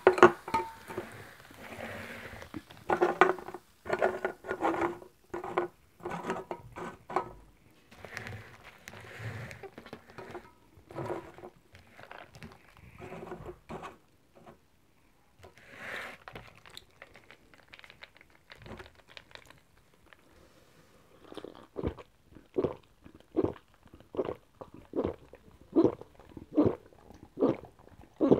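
Close-miked drinking of fizzy Coca-Cola: lip and mouth clicks and soft carbonation hiss at first. From about two-thirds of the way in come steady, rhythmic gulps, a little more than one a second, as the drink is chugged down.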